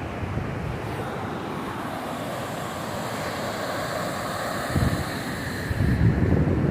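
Steady rushing of a large waterfall, the Pailón del Diablo. Wind buffets the microphone in low gusts about five seconds in and again near the end.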